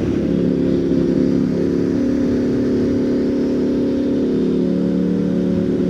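Motorcycle engine running under way at a steady pitch, with a low rumble beneath it.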